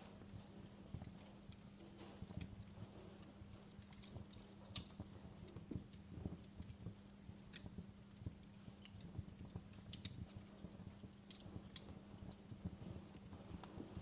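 Quiet wood fire crackling: irregular sharp pops and snaps over a low, even rumble.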